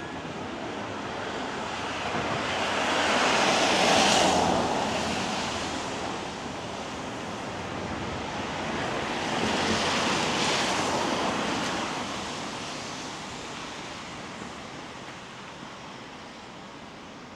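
Two vehicles passing one after another on a wet road, their tyres hissing through the surface water as each swells up and fades away, the louder about four seconds in and the second around ten seconds.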